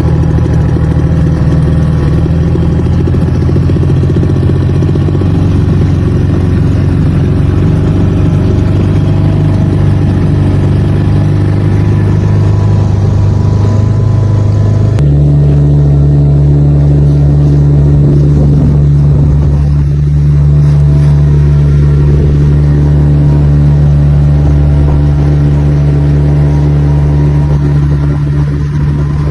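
Outboard motor of a small boat running steadily under way. About halfway through, its note changes abruptly to a different steady pitch.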